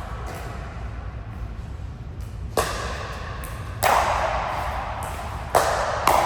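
A rally of sharp racket hits echoing in a large hall: four strikes between about two and a half and six seconds in, a second or so apart, the middle two loudest.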